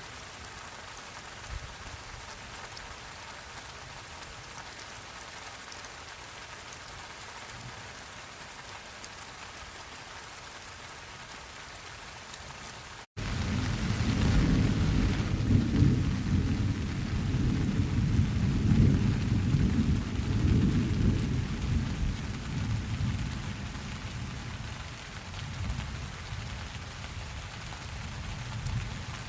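Steady rain. About halfway through, after a sudden brief break in the sound, a long low rumble of thunder rolls in and fades over about ten seconds while the rain goes on.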